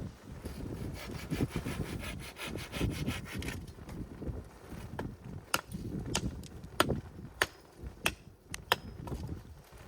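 Wood being sawn by hand in quick, even strokes for the first few seconds, followed by a string of sharp separate knocks.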